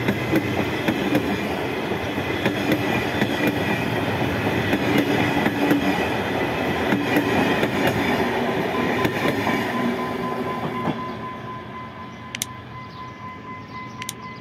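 Egyptian National Railways passenger coaches rolling past close by, their wheels clicking and clattering over the rail joints. About eleven seconds in the train draws away and the sound fades, with two sharp clicks near the end.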